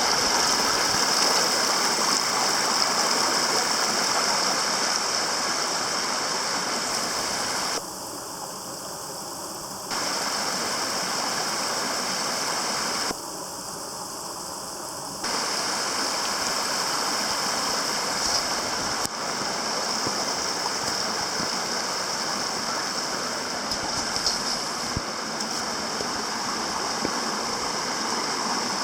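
Water running steadily over a waterfall. Twice, for about two seconds each, the sound turns quieter.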